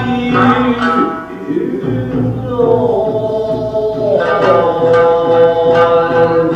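Traditional Japanese dance accompaniment: a sung line held and sliding in pitch over sparse plucked shamisen notes.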